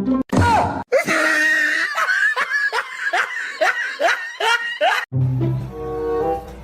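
A run of about nine short voiced cries, each sweeping in pitch, about two a second. From about five seconds in, background music with steady notes takes over.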